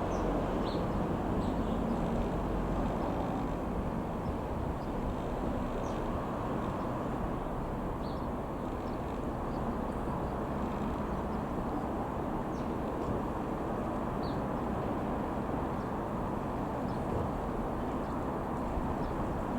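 Reims Cessna F.152 light aircraft's four-cylinder piston engine running steadily, with faint bird chirps now and then.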